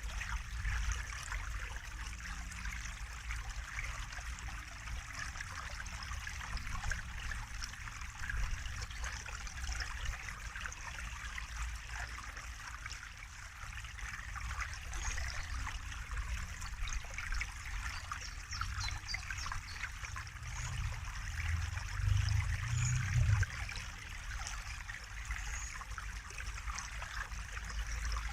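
Water trickling and splashing steadily, with many small droplet sounds over a continuous rush. A low rumble runs underneath and swells briefly about 22 seconds in.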